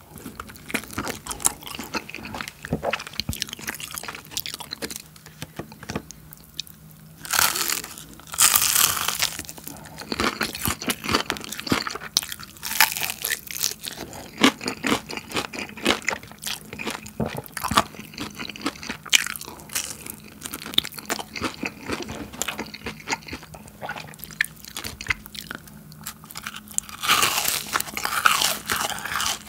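Close-miked biting and chewing of crispy Bburinkle seasoned fried chicken: the coating crunches and crackles under the teeth, with wet chewing between bites. The loudest crunches come about seven to nine seconds in and again near the end.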